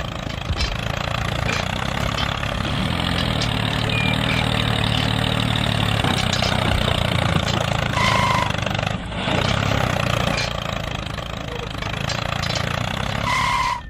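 A small engine running steadily, as on a DIY mini tractor or construction machine. Two short high-pitched tones sound, about eight and thirteen seconds in.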